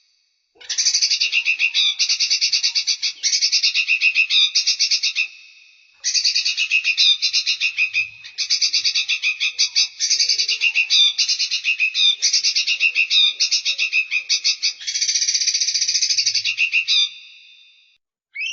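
A songbird's fast, high-pitched trilled song, with notes at about ten a second, repeated in runs of a second or so. The song pauses briefly about five seconds in and again near the end.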